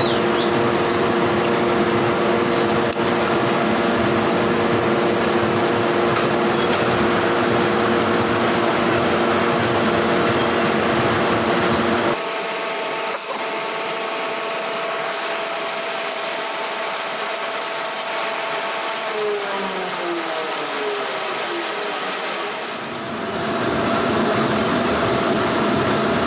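Manual metal lathe running with a steady machine hum and steady tones. About halfway through the sound changes abruptly, and a little later a falling whine is heard as the machine slows down.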